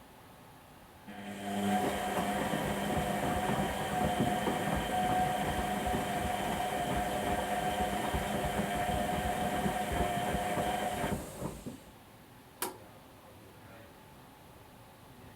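Whirlpool Indiana 1400 washing machine during its wash cycle: the drum motor runs with a steady whine and sloshing, knocking noise for about ten seconds, then stops. A single sharp click comes about a second after it stops.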